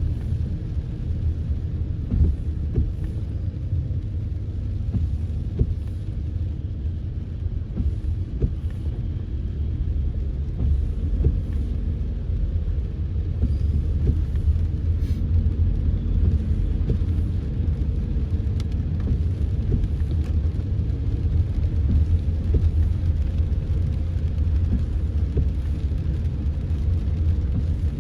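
Car driving through heavy rain: a steady low rumble of road and engine noise, with faint scattered ticks.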